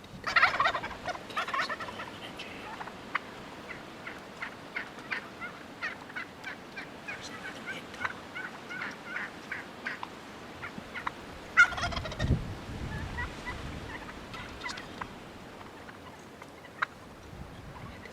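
Wild turkey toms gobbling loudly, one gobble right at the start and another about twelve seconds in, with short clucking notes repeating in between. A low rumble of wind on the microphone comes in with the second gobble.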